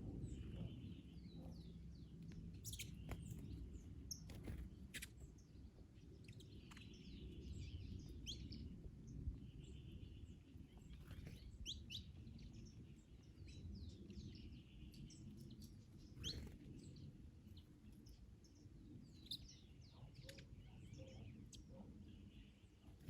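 Several birds chirping and calling in short, high notes and brief trills throughout, faint over a steady low wind rumble.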